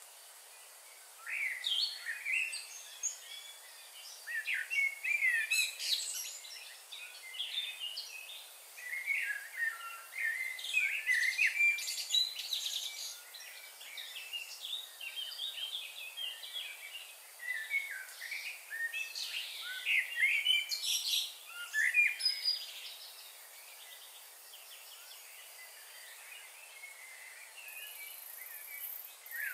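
Songbirds chirping and calling, many short chirps and trills in quick succession, thinning out near the end.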